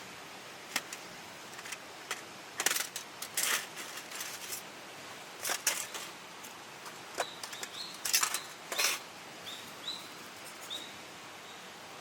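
Irregular rustling and crackling in short bursts over a steady stream hiss, with a few brief rising chirps near the middle and again near the end.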